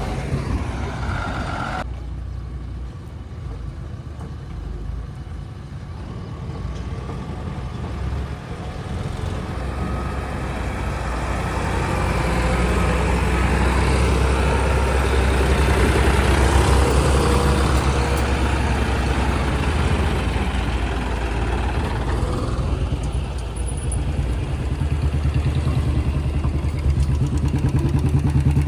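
Heavy diesel engines of earth-moving machinery and trucks running, with a steady low rumble that swells louder through the middle and again near the end as the machines work under load.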